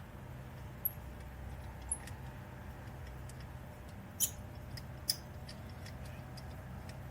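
A few short, light metallic clicks of bolts and exhaust hardware being handled during an exhaust install, with a steady low hum underneath.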